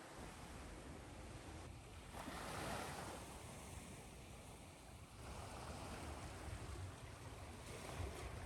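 Ocean surf washing onto a beach, swelling and receding, over a steady hiss of white noise. A louder wave surges about two seconds in and another about five seconds in.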